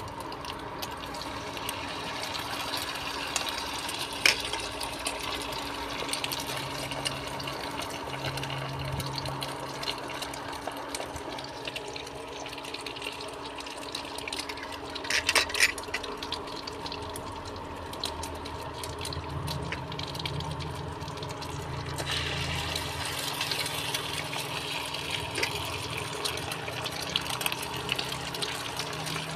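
Food frying in a pan with a little oil, sizzling and crackling steadily under a low hum, with a brief louder clatter about fifteen seconds in.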